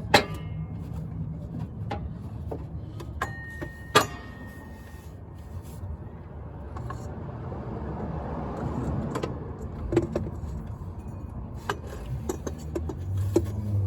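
Hand tools clinking and knocking on metal under the hood over a low steady hum, with two sharp knocks, one right at the start and one about four seconds in.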